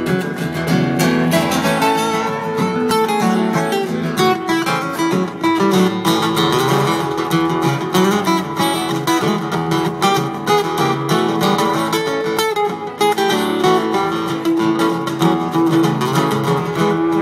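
Live acoustic guitar music: a strummed instrumental passage that runs on steadily without singing.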